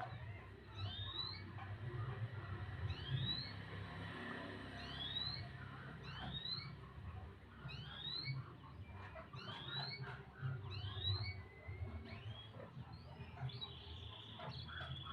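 A bird repeating a short rising chirp about once a second, over a low uneven rumble.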